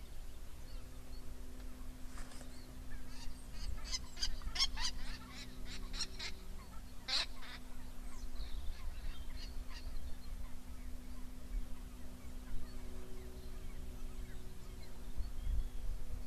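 A bird calling in a run of short, sharp, high notes starting about two seconds in and lasting about five seconds, ending with one louder call. A faint steady hum and a low wind rumble run underneath.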